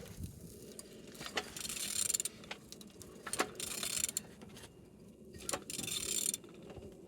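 A ratchet wrench turning a used car engine over by hand by the crankshaft, in repeated strokes about every two seconds, each a click followed by a short rasp. The engine turns freely, a sign that it is not seized.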